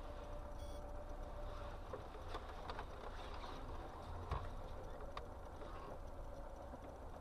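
Steady low rumble of a car running, heard from inside the cabin, with a few faint clicks and knocks, the clearest about four seconds in.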